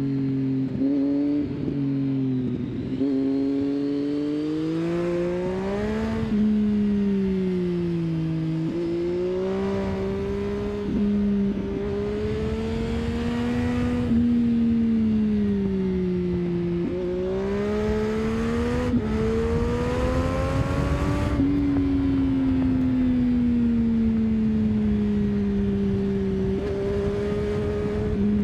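Triumph Street Triple 675 inline three-cylinder engine under way, its note rising and falling as the throttle opens and closes through the bends. There are several quick jumps in pitch at gear changes, with a low rush of wind and road noise underneath.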